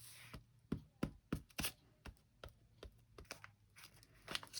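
Paper cutouts being glued down by hand: a short soft rub at the start, then light irregular taps and paper rustles.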